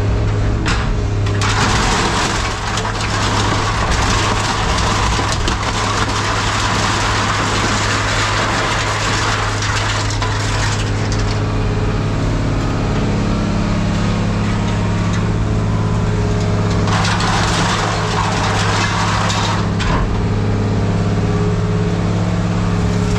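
Hydraulic scrap-metal shear running with a steady low hum, crushing and cutting metal in two long harsh spells, the first about nine seconds long and the second about three.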